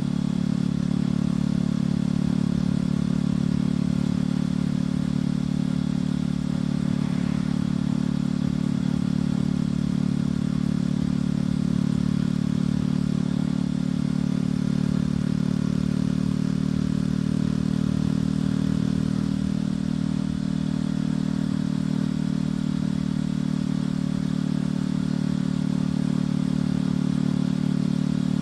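Motorcycle engine and exhaust running at a steady, even speed while riding, with little change in pitch.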